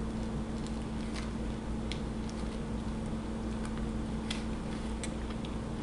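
Faint, scattered clicks of a person chewing a bite of toasted sandwich, over a steady low hum.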